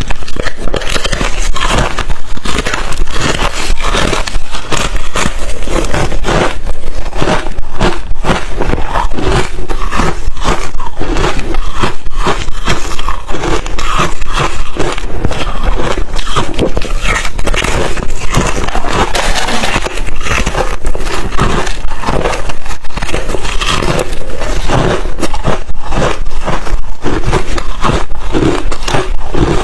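Crushed chips of thin, refrozen ice crunching and crackling between the teeth, chewed without pause in a close, loud series of crunches.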